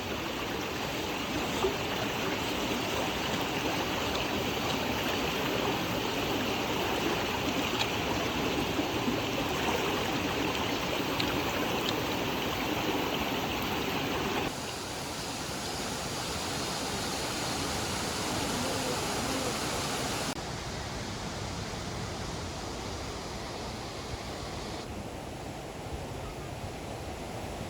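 Steady rushing water of a mountain valley stream. The level steps down abruptly about halfway through and again near the end, as the clips change.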